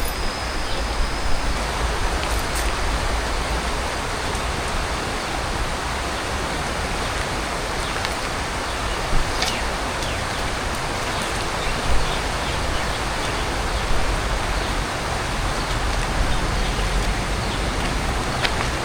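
Steady rushing of flowing river water, with a few short knocks about nine and twelve seconds in.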